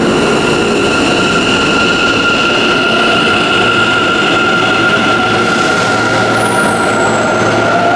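Electric commuter train moving through the underground station, the rumble of the cars under a steady high-pitched whine.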